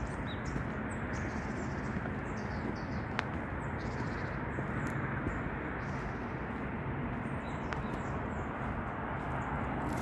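Small birds chirping in short calls scattered throughout, over a steady rushing noise.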